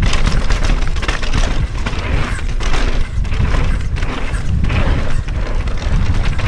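Loud wind buffeting on the microphone of a moving rider's camera, a heavy rumble with rough rushing noise that surges every second or so.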